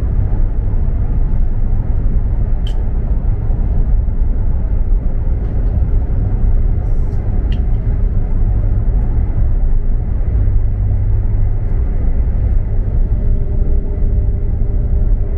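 KTX high-speed train running at speed, heard on board: a steady low rumble, with a few faint ticks and, near the end, a faint steady hum added.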